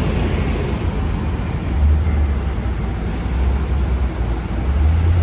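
Road traffic on a busy city avenue: a steady wash of passing vehicles with a low engine rumble that swells and eases.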